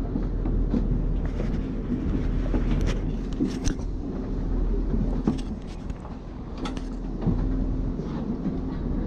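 Enoshima Electric Railway train running, heard from inside the car: a steady low rumble with a motor hum that shifts pitch a couple of times, and scattered sharp clicks and knocks from the wheels and car body.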